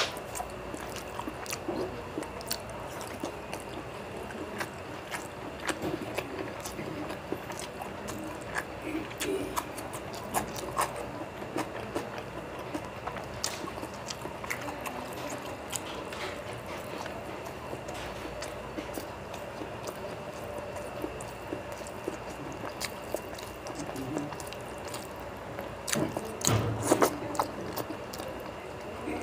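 Close-miked wet chewing and lip-smacking of someone eating a curry-soaked boiled egg and rice by hand, with many short mouth clicks. Near the end comes a louder spell of squishing and rustling.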